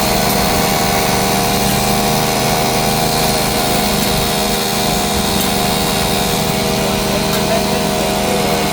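A machine motor running steadily at one constant pitch, with a steady hum of several tones over a noisy hiss.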